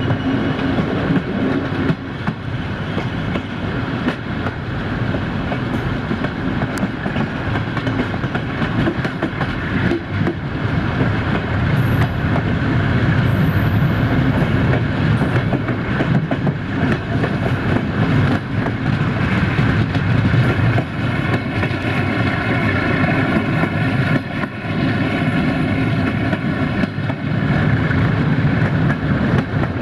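Passenger train hauled by a CFR 060-DA diesel locomotive, running at speed and heard from an open coach window: a steady, loud rumble of wheels on the rails with occasional sharp clacks.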